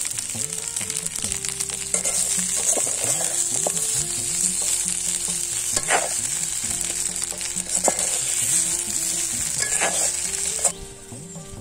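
Leaves frying in hot oil in a clay pan, sizzling steadily as a metal spoon stirs them, with a few sharp scrapes of the spoon against the pan. The sizzle cuts off suddenly near the end.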